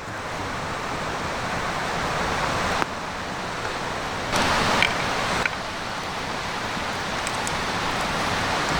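Wood campfire burning: a steady rushing hiss with a few faint crackles, the level jumping abruptly a few times.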